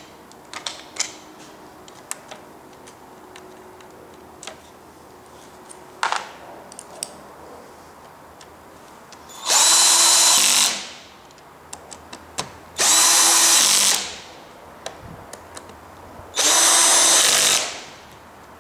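Power screwdriver or drill whirring in three bursts of about a second each, with small clicks of handling before them.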